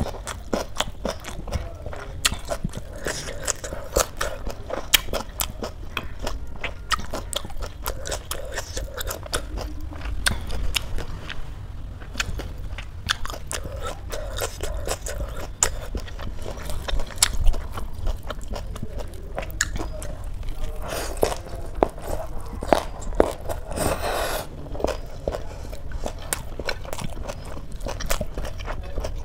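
Close-miked chewing and crunching: a person biting into and eating crisp lettuce leaves wrapped around rice and curry, full of small wet clicks and crackles. A louder stretch of crunching comes a little after two-thirds of the way through.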